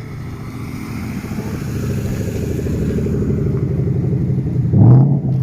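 Chevrolet LT1 V8 engine running with a deep, even rumble that grows louder, then a short blip of the throttle about five seconds in.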